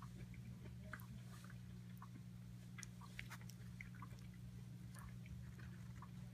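Faint chewing of a soft cooked carrot, heard as scattered small mouth clicks, over a steady low hum.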